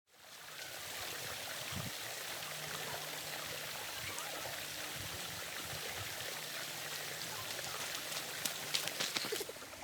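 Creek water rushing steadily, with a few sharp clicks near the end.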